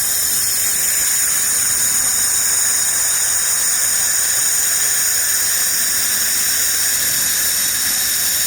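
Handheld fiber laser machine firing: a steady, loud hiss with a high-pitched whine.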